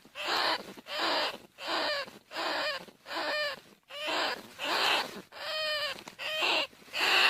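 Bandicoot rat squeals, harsh calls repeated at a steady rate of about three every two seconds, played as a hunting lure call.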